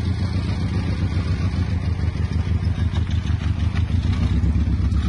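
2004 Chevy Pop's small four-cylinder engine running at idle, a steady low hum, as the car creeps off in first gear on the clutch alone with no throttle.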